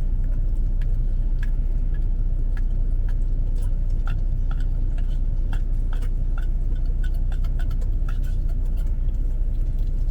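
Steady low rumble of an idling semi-truck engine heard from inside the cab, with scattered light clicks and ticks over it.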